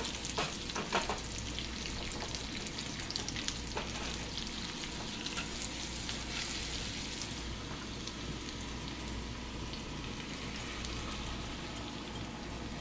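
Chopped bacon and jalapeño slices sizzling in a frying pan, with a few clicks and scrapes of a spatula against the pan in the first few seconds. About halfway through the sizzle softens as beaten egg is poured over the fillings.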